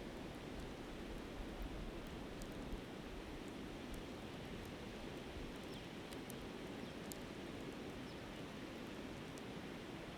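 Steady rushing of a flowing river, with a few sparse sharp crackles and pops from a campfire burning down toward coals.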